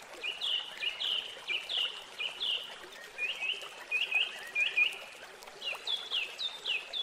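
A small songbird singing a quick series of short, high, falling notes, repeated over and over in little groups.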